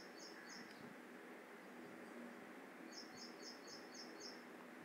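Near silence with faint high bird chirps in the background: a quick run of about six short chirps at the start, and another run about three seconds in.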